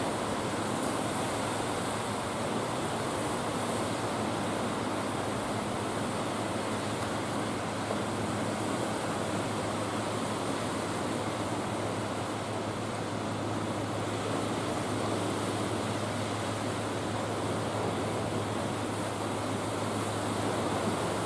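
Steady rushing of wind and sea water with a constant low hum underneath, unchanging throughout.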